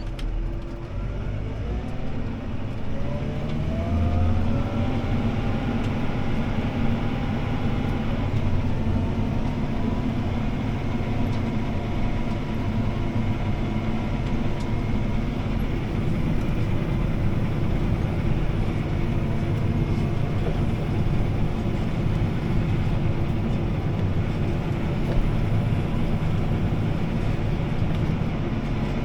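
CLAAS ARION 650 tractor's six-cylinder diesel heard from inside the cab, its pitch rising over the first several seconds as it speeds up, then running steadily while pulling a disc harrow through the stubble.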